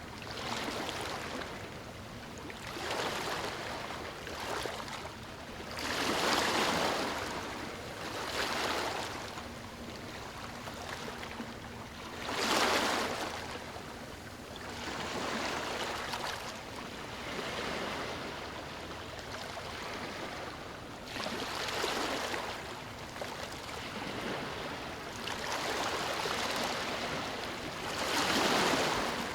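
Ocean surf breaking and washing onto a beach, a steady rush that swells and fades about nine times as waves come in, the loudest surges about a third, halfway and near the end.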